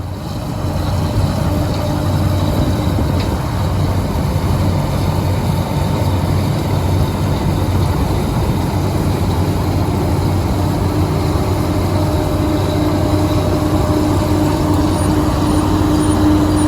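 White 7300 combine running steadily in the corn field on its 318 cubic inch Chrysler V8 gasoline engine, a loud, even engine-and-machinery drone with a low hum.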